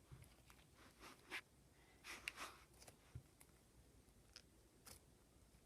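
Near silence: room tone with a few faint, short clicks and rustles of handling.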